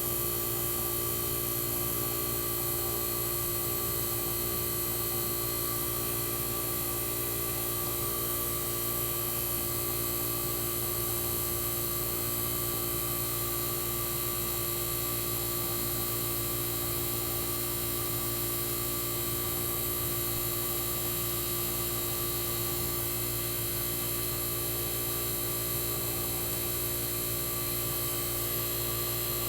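Tecumseh AJM reciprocating compressor of a 1965 Fedders Weather Wheel 12,000 BTU air conditioner running steadily: a constant hum with several steady tones layered over it.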